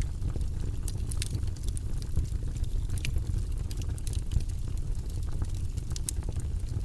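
Log fire burning in a fireplace: frequent irregular sharp crackles and pops from the burning wood over a steady low rumble of the flames.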